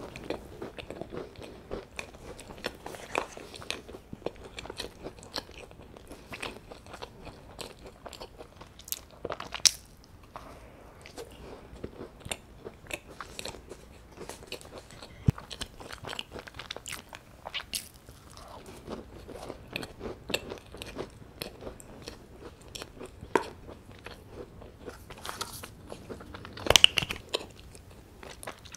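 Close-miked chewing and biting of a plain scone: soft, crumbly chewing with scattered small crunches and mouth clicks. Near the end comes a louder burst of handling noise as a jam tube is opened and squeezed.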